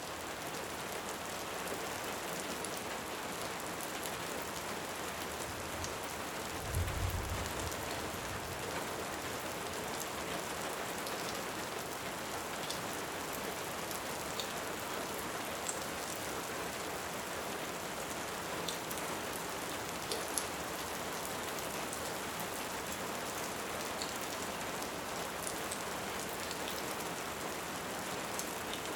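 Steady rain with scattered sharp crackles of a wood fire, and a short, low rumble of distant thunder about seven seconds in.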